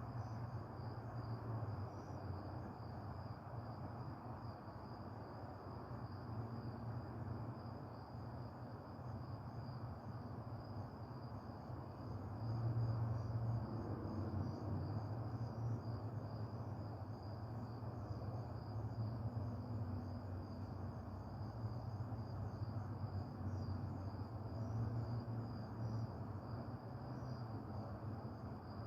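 Crickets chirping in a steady, unbroken high trill, over a low rumble that swells about halfway through.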